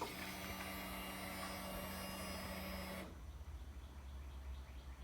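Motorcycle electric fuel pump whirring steadily for about three seconds as the ignition is switched on, priming the fuel system before the engine is started, then cutting off; a low hum continues underneath.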